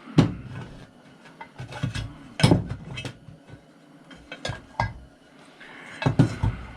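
Irregular metal clinks and knocks of hand tools working on a chop saw's parts during teardown, a few sharp strikes with lighter clatter between.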